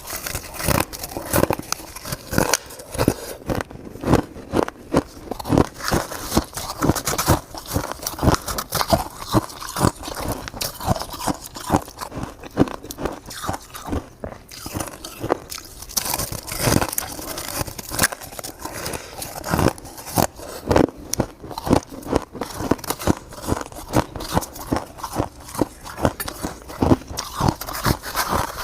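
Close-up crunching and chewing of shaved crystal ice in the mouth: many crisp, crackling crunches in quick succession.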